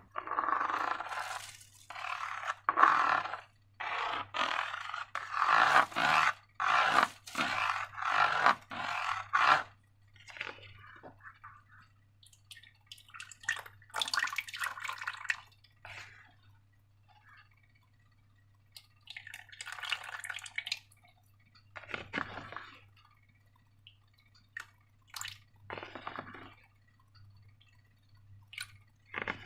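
Wet slime squelching and squishing, in a quick run of short bursts for about the first ten seconds, then fewer and quieter ones, over a faint steady low hum.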